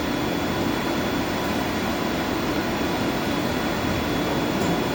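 Steady roar and hum of boiler-house machinery, running evenly without change, with a faint thin high whine over it.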